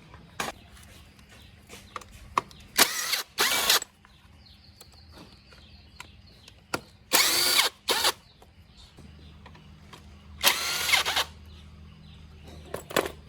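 Handheld power tool run in short bursts, five of them, each under a second and spinning up and down, with small metallic tool clinks in between.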